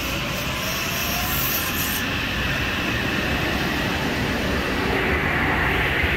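Metro-North electric multiple-unit commuter train cars rolling past at close range, a steady rumble of wheels on rail. A faint rising whine comes in during the first second, and the noise grows louder toward the end.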